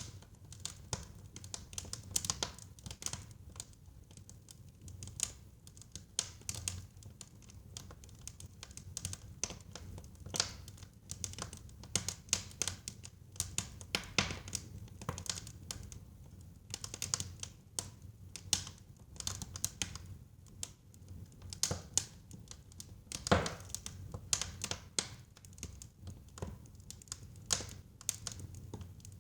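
Wood fire burning in a fireplace: irregular sharp crackles and pops over a steady low rumble of the flames, with a louder pop about 23 seconds in.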